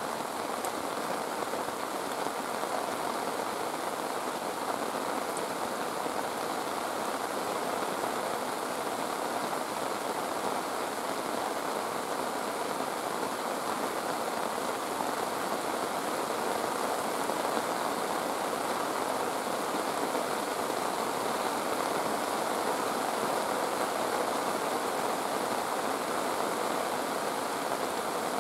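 Heavy rain falling, a steady even rush with no breaks or distinct events.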